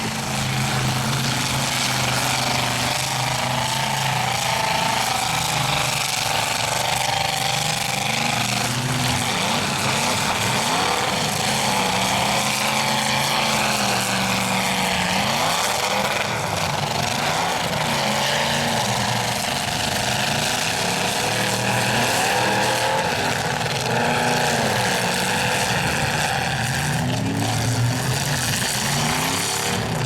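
Several stock pickup trucks' engines revving and running together in a demolition derby heat, their pitches rising and falling as the drivers push on the throttle.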